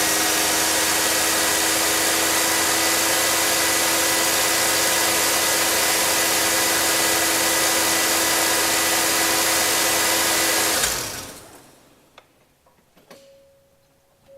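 Mazda 20B three-rotor turbocharged rotary engine of a Eunos Cosmo idling steadily, then shut off about eleven seconds in, its sound dying away within a second. Afterwards there are a few faint clicks and a faint steady beep-like tone.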